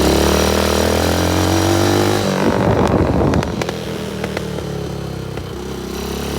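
Straight-piped 125cc quad engine running steadily. About two and a half seconds in there is a brief rattling stretch, and then the engine settles lower and quieter.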